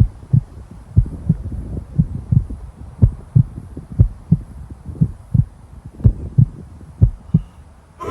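Heartbeat sound effect: a slow, steady lub-dub, a pair of low thumps about once a second.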